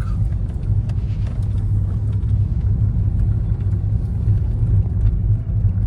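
Steady low rumble of a moving vehicle: road and wind noise with no distinct engine note.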